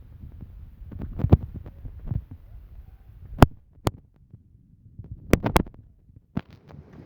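Muffled low thumps of footsteps and handling on the microphone, with about half a dozen sharp clicks and knocks spread through, as of stones knocking underfoot on a rocky path.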